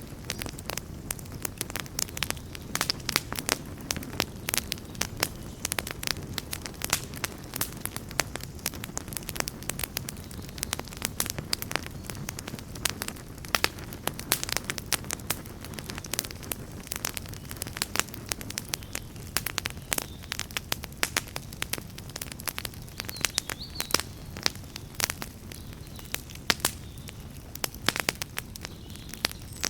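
Campfire burning: many irregular sharp crackles and pops of burning wood over a low, steady rumble of flame.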